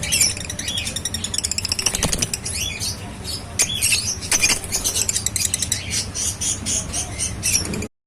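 A flock of African lovebirds chattering: a dense run of rapid, high-pitched chirps and squawks.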